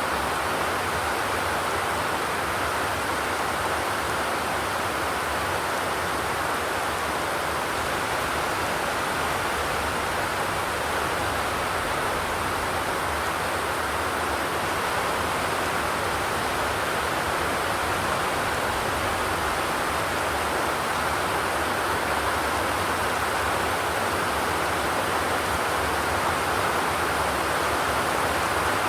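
Steady rain falling on a zinc roof, an even hiss of drops with no thunder.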